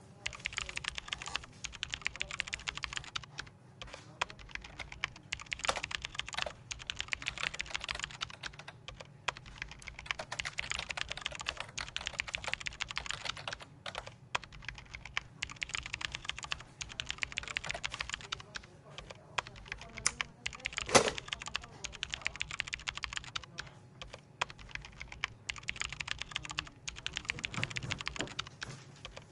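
Computer keyboard typing in quick runs of keystrokes broken by short pauses every few seconds, with one louder knock about two-thirds of the way through, over a steady low room hum.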